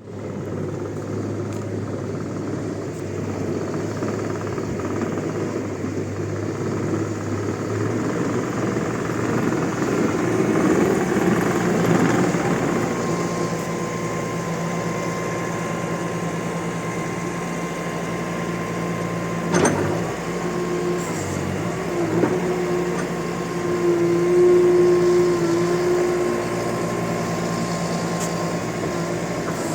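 Bobcat T650 compact track loader's diesel engine running steadily. It swells in level twice, and there is a single sharp clank about two-thirds of the way through.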